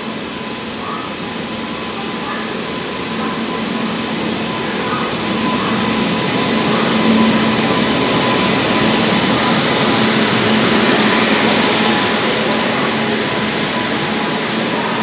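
Indian Railways WAP-7 electric locomotive running into the platform with its passenger train, the running noise and a steady hum building as it draws level about seven seconds in. The coaches then roll past, still loud.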